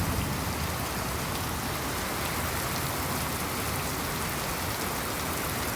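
Torrential rain pouring down in a steady, dense hiss, a cloudburst heavy enough to cut visibility to near zero.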